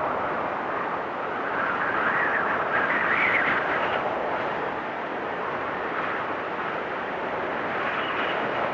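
Blizzard wind blowing as a steady rushing noise, swelling in a gust about three seconds in and then easing.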